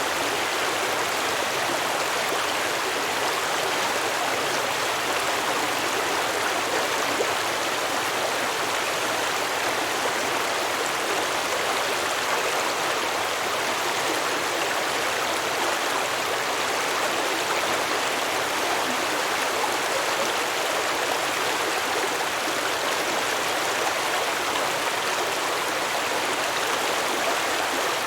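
Shallow stream flowing and babbling over rocks, a steady even rush of water.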